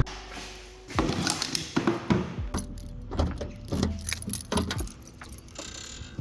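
A bunch of keys jangling, with a run of short clicks and rattles of things being handled.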